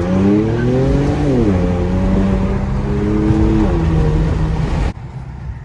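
Straight-piped Infiniti Q50 exhaust under acceleration. The engine note climbs for about a second, falls as the revs drop, holds fairly steady, then falls again about three and a half seconds in. Just before the end it cuts off suddenly to a much quieter engine sound.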